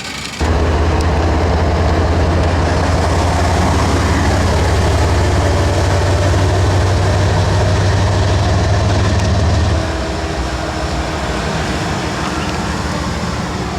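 Diesel locomotive engine running close by: a steady, deep engine hum with a low drone. It drops to a quieter level about ten seconds in.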